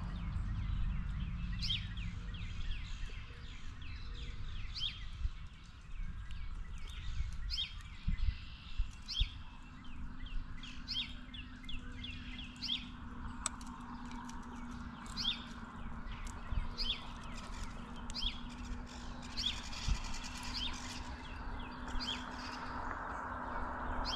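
Birds outdoors chirping: short high calls repeating every second or so, over a low outdoor rumble with a few low knocks near the middle. A faint steady low hum comes in about halfway through.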